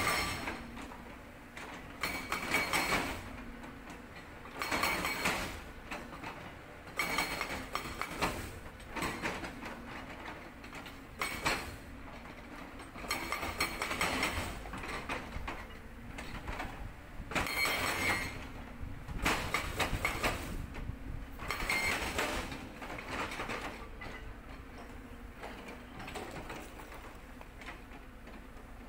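Sangdo SD220 hydraulic breaker on a Cat 320D excavator hammering rock in bursts of rapid blows, each about a second long, every two or three seconds, over the excavator's steady engine hum. The bursts become weaker in the last few seconds.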